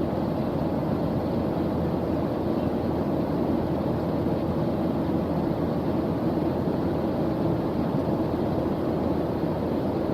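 Steady white-noise focus track: an even, unbroken rushing hiss with most of its weight low and deep.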